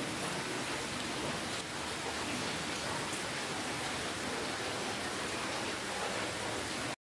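Steady rainfall, an even hiss with no single drops standing out. It cuts out abruptly to silence just before the end.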